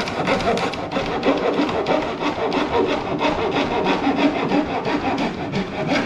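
Wood being worked by hand with an abrasive tool in rapid back-and-forth scraping strokes, several strokes a second.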